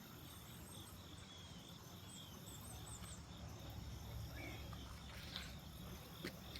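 Faint riverside morning ambience: a steady low rumble under a steady high insect drone, with a few faint, high bird chirps about two to three seconds in.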